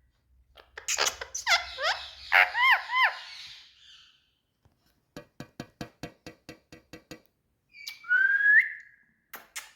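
Indian ringneck parakeet making a string of short, arching whistled calls, then going quiet before a quick run of about a dozen sharp clicks and one rising whistle near the end.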